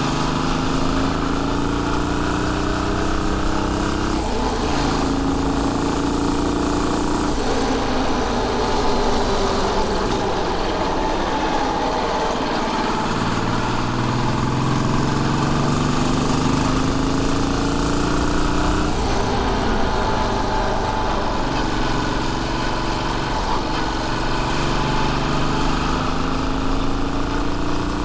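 Royal Enfield Bullet 500's single-cylinder four-stroke engine on the move, its note climbing and then dropping back several times as it changes through the gears, with wind rush over it.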